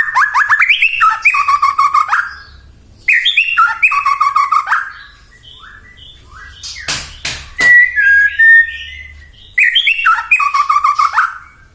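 White-rumped shama singing in four bursts of fast whistled phrases, each opening with quick falling notes and settling into a run of lower repeated notes, with a couple of sharp cracks about seven seconds in.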